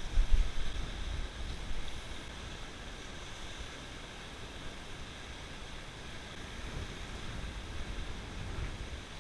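Near-gale wind buffeting the microphone in low gusts, over a steady hiss of sea surf. The strongest gust comes right at the start.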